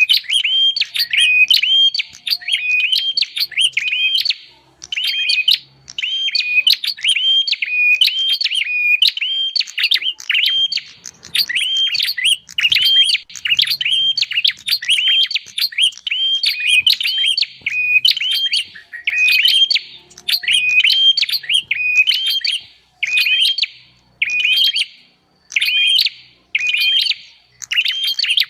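Prinia (prenjak) calls used as a bird lure: a fast, continuous run of sharp repeated chirps, broken by short pauses between phrases in the later part.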